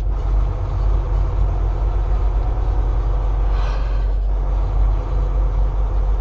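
Volvo semi-truck's diesel engine and road noise heard inside the cab while driving, a steady low drone, with a brief hiss about three and a half seconds in.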